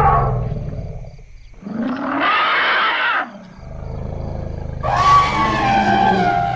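Elephants trumpeting and rumbling. A call slides down in pitch and fades within the first second. A short trumpet-like call follows at about two seconds. From about three and a half seconds a low rumble sets in, with a second loud call over it from near five seconds.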